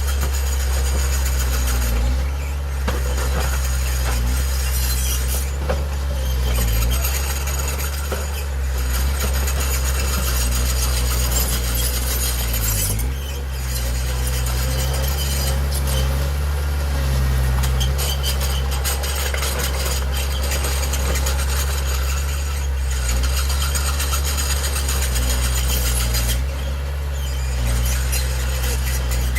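Heavy diesel earthmoving machine running: a steady low engine drone with continuous metallic, high-pitched noise above it, dipping briefly about halfway through.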